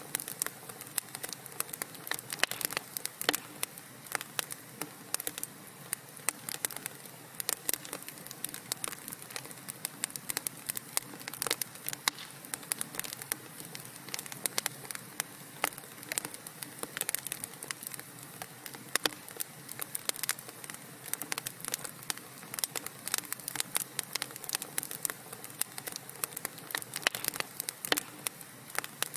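Wood fire burning in a fireplace, crackling steadily: a constant soft hiss of flames with many irregular sharp pops and snaps.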